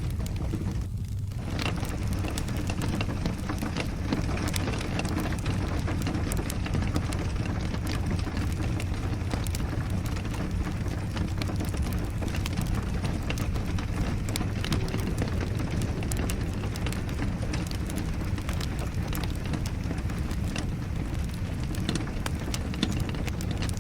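Fireplace crackling with frequent small pops over a steady low rushing of rain.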